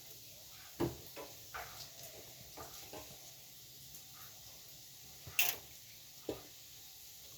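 A series of irregular short knocks and clicks of objects being handled, about eight in all, with the loudest a little past halfway.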